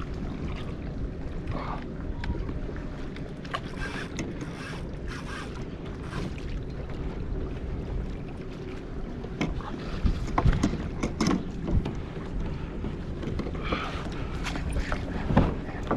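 Wind on the microphone and water around a kayak, with scattered knocks and clicks from handling gear on the boat, most of them about ten to eleven seconds in and again near the end.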